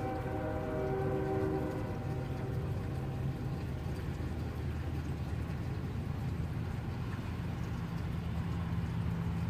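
A distant train horn sounds a held chord that stops about two seconds in, over the steady low rumble of the passing train. Rain falls throughout.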